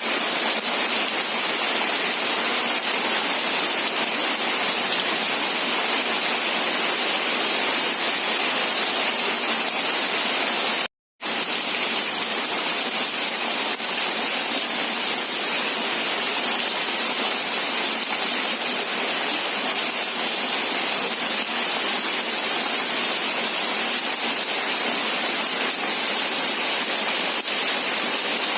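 Steady heavy rain, an even hiss without distinct drops, with little low rumble. It cuts out completely for a fraction of a second about eleven seconds in, then carries on unchanged.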